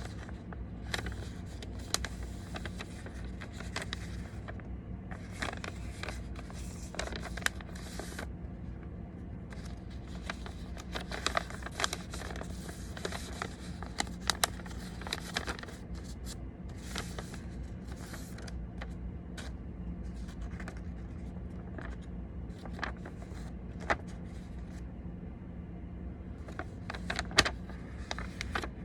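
A sheet of origami paper being folded and creased by hand: irregular crinkles, scrapes and sharp clicks, over a steady low hum.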